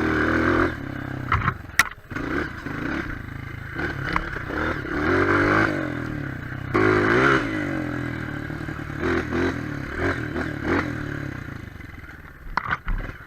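Single-cylinder four-stroke trail motorcycle engine revving up and down repeatedly while riding, with clattering and scraping over rough ground and a sharp click about two seconds in. The engine eases off near the end.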